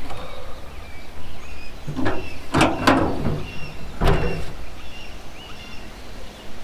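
A few sharp knocks and thuds, bunched between about two and four seconds in, over birds chirping.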